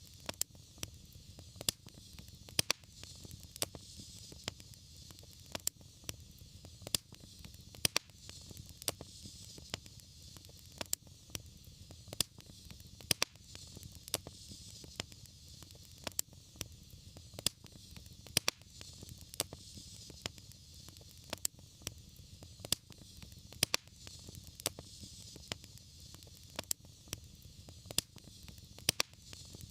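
Wood fire crackling, with sharp, irregular pops a few times a second over a low steady rumble and a soft hiss.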